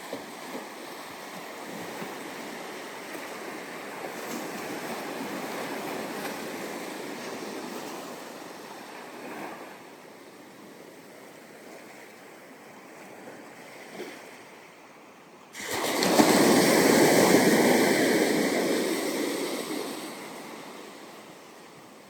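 Ocean surf on a sandy beach: waves wash in and ease back, then about two-thirds of the way through a louder wave breaks close by and slowly fades away.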